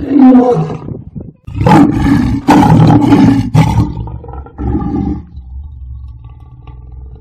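A lion roaring: one roar, then a run of loud roars a second or so later, and a weaker call about five seconds in.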